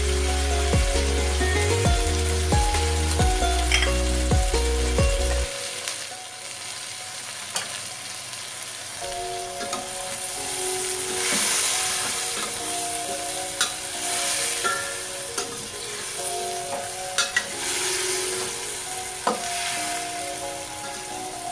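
Chicken feet sizzling as they fry in a stainless steel pot, stirred with a spoon that knocks against the pot a few times. The sizzle grows louder about halfway through. Background music plays throughout, with a deep bass for the first few seconds.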